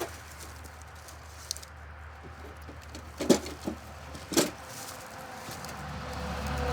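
Dry sticks cracking in a few sharp, irregular snaps, the loudest two a little after halfway through, over a faint low steady rumble.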